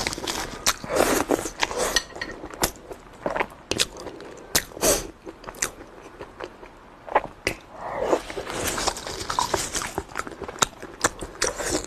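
Close-miked chewing and mouth sounds of a person eating: irregular sharp clicks and smacks, several a second.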